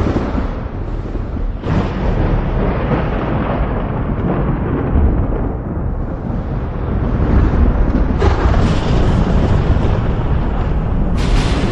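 Thunder rumbling continuously over heavy rain, with new peals breaking in sharply about eight and eleven seconds in.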